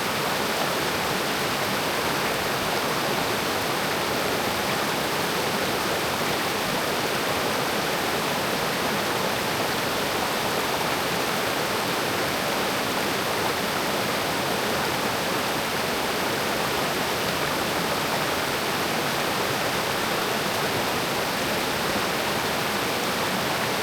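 Mountain creek water rushing over rocks: a steady, even hiss that does not change.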